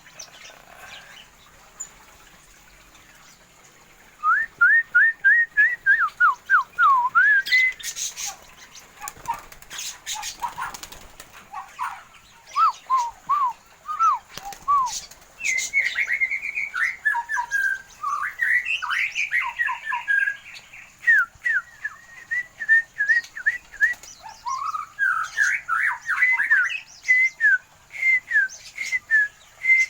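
Songbirds in a small aviary singing: quick series of repeated whistled notes, sliding up and down, starting about four seconds in and carrying on in phrases, with a few sharp clicks in between.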